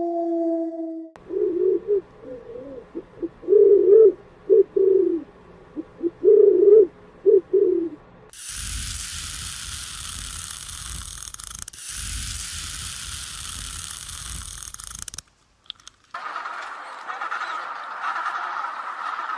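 A bird's low cooing calls, about a dozen short rising-and-falling coos over several seconds. Then a stretch of loud even noise and, after a brief gap, a quieter hiss.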